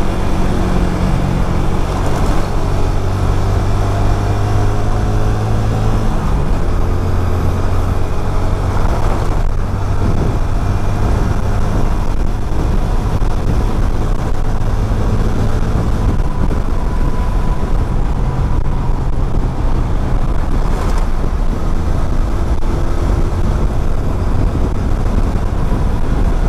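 Motorcycle engine running while riding, under steady wind and road rush, with traffic around. The engine note rises over the first few seconds and drops about six seconds in.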